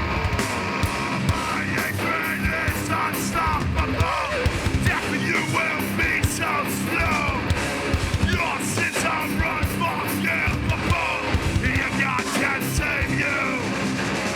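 A loud live heavy band playing full-on: distorted electric guitars and bass over fast, pounding drums.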